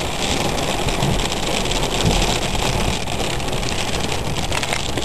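Steady rush of thunderstorm rain and wind on and around a car, heard from inside the car, with faint fine pattering and no clear break.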